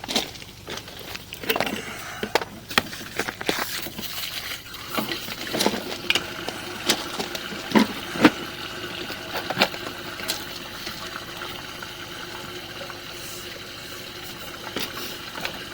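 Water running through a sewer main at the city connection, a steady rush, with many irregular knocks and clicks over the first ten seconds or so.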